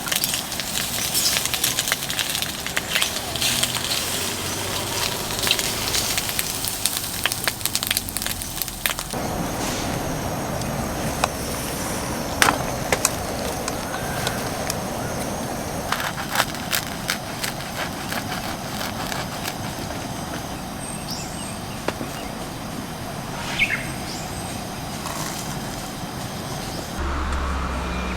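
Wood campfire crackling and popping, with dense snaps for the first nine seconds or so, then sparser pops over a steady hiss.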